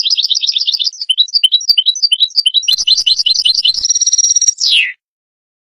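European goldfinch singing one phrase of rapid twittering trills and quick chirps, with a buzzy held note and a falling glide at the end, about five seconds in.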